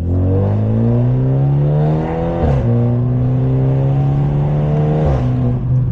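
Straight-piped, catless exhaust of a BMW 530i's turbo four-cylinder under acceleration: the pitch climbs, falls sharply about two and a half seconds in as in an upshift, climbs again more gently, then drops once more near the end.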